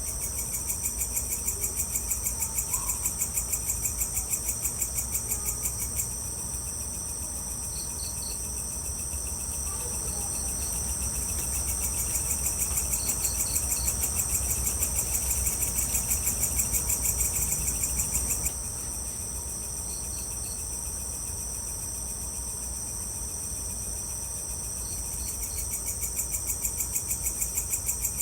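Evening insects, crickets among them, trilling fast and continuously in several overlapping layers, with a short three-pulse chirp repeating every five seconds or so. A steady low rumble runs underneath, and the high trilling drops away abruptly about 18 seconds in.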